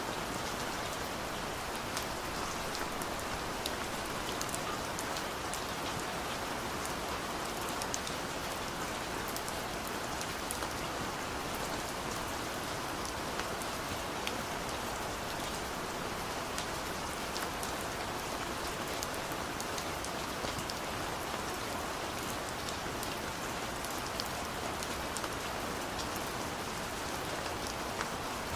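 Steady rain on a car's roof and windows, heard from inside the car: an even hiss with frequent sharp ticks of single drops.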